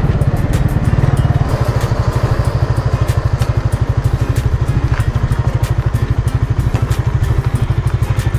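Suzuki Raider 150 motorcycle's single-cylinder four-stroke engine running at low revs as the bike slows. After about a second and a half it settles into an even, rapid pulsing beat.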